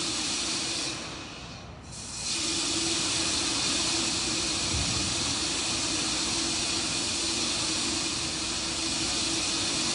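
Steady hiss with a faint low hum from the launch-pad audio of a fueled rocket, dropping away briefly about a second in before returning.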